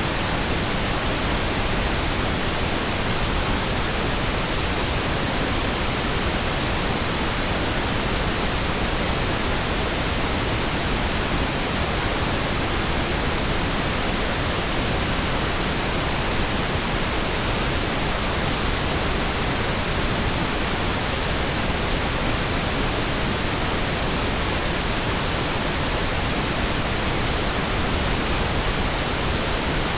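Synthetic pink noise: a smooth, steady hiss across the whole range with no changes or interruptions.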